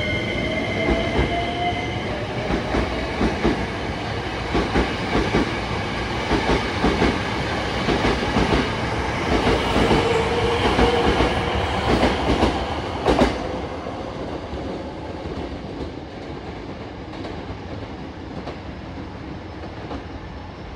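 Hankyu 9300 series electric train pulling out of the station. A rising whine near the start is followed by the wheels clacking over rail joints in a quickening rhythm, with one sharp loud clack about two-thirds of the way through. The sound then fades as the train leaves.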